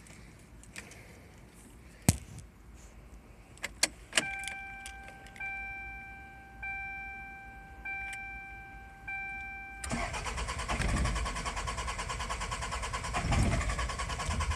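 A few clicks, then a car's warning chime sounding in steady pulses. About ten seconds in, the starter begins cranking the Toyota 3S-FE four-cylinder over, and the engine turns but does not catch. This is a crank-no-start, which the owner puts down to very weak spark.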